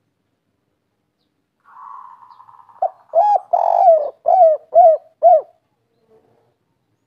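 Spotted dove singing a 'kuk 3' song: a soft purring opening, then a run of loud coos with one longer note in the middle, ending on three short, evenly spaced coos.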